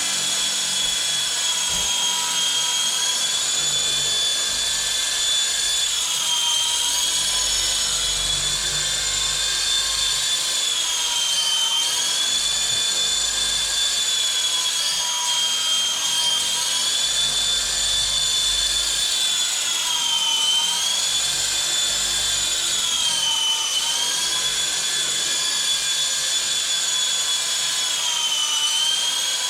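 WLtoys V913 brushless RC helicopter in flight: its brushless motor and rotors make a steady high whine that dips in pitch for a moment several times, the rotor speed sagging and recovering, over a rushing of rotor wash.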